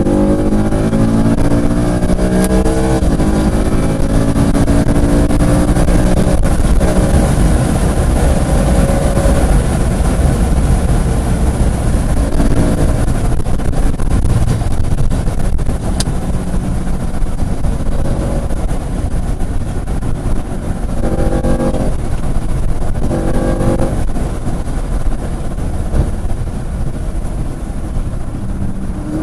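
Car engine driven hard on a race track, its pitch climbing under acceleration at the start, twice briefly about two-thirds of the way through, and again near the end, over heavy wind and road noise.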